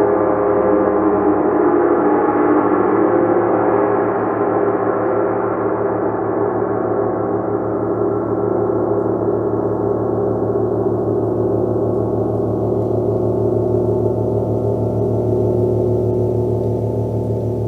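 A gong ringing in a dense, sustained wash of overtones. The higher shimmer slowly fades away while the deep hum holds steady.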